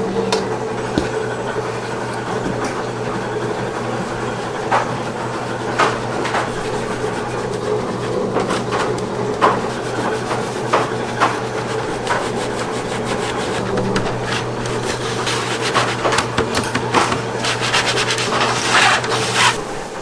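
Rubbing and scraping, with scattered light knocks that come thicker near the end, over a steady machine hum.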